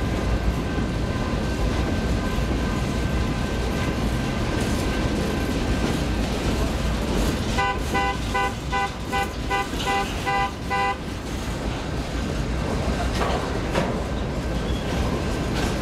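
Freight train of empty centerbeam flatcars rolling past: a steady rumble and rattle of wheels on rail, with a faint steady high tone through the first half. In the middle, for about three seconds, a chiming tone repeats about three times a second over the train noise.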